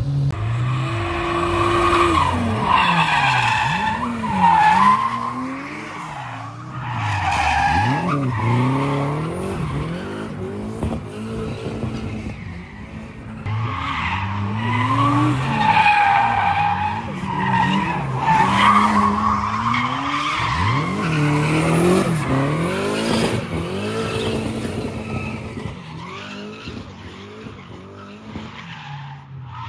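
Car drifting: the engine revs rise and fall over and over as the throttle is worked, while the tyres squeal in long, wavering screeches. It grows fainter over the last few seconds.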